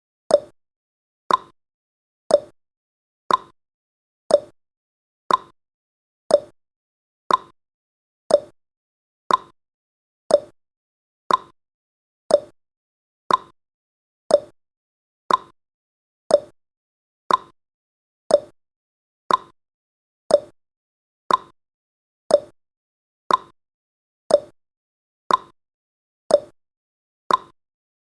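Countdown timer's ticking sound effect: a short, sharp tick once a second, alternating between a higher and a lower note like a clock's tick-tock.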